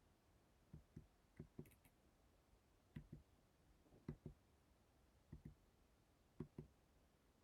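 Faint knocking in a quiet room: short dull taps, mostly in quick pairs, about six pairs at irregular intervals.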